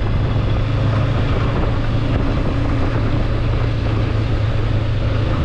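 Motorbike engine running steadily under way, a constant low drone with rushing noise over it.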